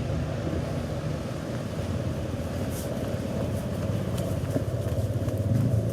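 A motor vehicle's engine running close by, a steady low rumble that grows a little louder near the end.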